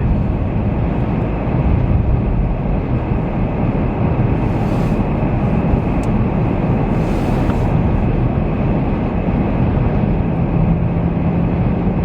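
Steady rumbling road and wind noise from a vehicle driving through a blizzard, with two brief hissing swells about four and seven seconds in.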